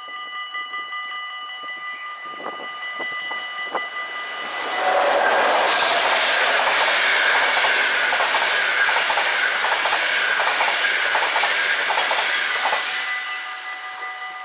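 Level-crossing warning bells ringing steadily. About four and a half seconds in, a passenger train passes for about eight seconds, its wheels clicking over the rail joints and drowning out the bells. The bells are heard again once it has gone.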